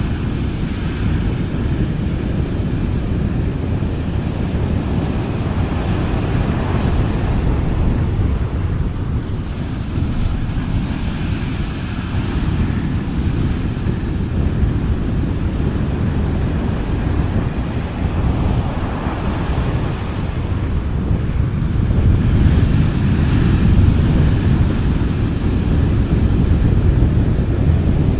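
Sea waves breaking softly and washing up a beach, swelling every few seconds, with a heavy low rumble of wind on the microphone.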